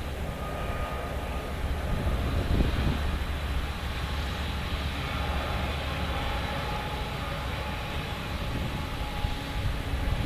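Distant freight train passing, led by two GE ES44C4 diesel-electric locomotives: a steady low rumble of engines and rolling cars.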